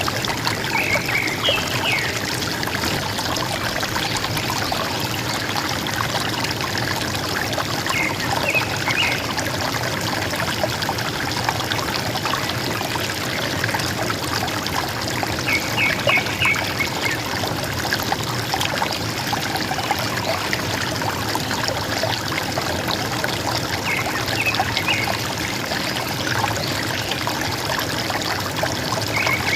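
River water gurgling and flowing steadily. A small forest bird gives a short burst of high chirps about every eight seconds, four or five times.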